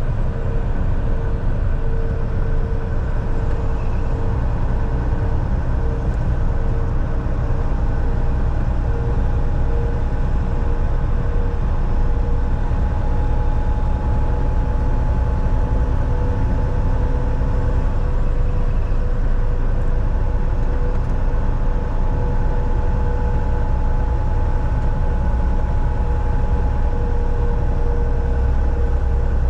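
Volvo VNL 760 semi truck driving at highway speed, heard from inside the cab: a steady low engine and road drone with a few faint whining tones held over it.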